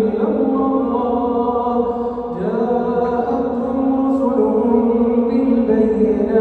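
A man's voice chanting Quran recitation (tajwid) in a slow melodic style, holding long drawn-out notes with a change of pitch about two and a half seconds in.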